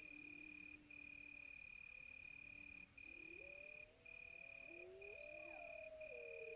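Crickets trilling steadily, the trill breaking off briefly about once a second, while several wolves howl far off in long, wavering, overlapping tones that swell toward the end.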